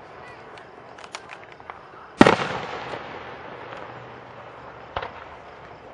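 Aerial fireworks shells bursting: a few small crackles, then one loud boom about two seconds in that rumbles away over about a second, and a second, smaller bang near the end.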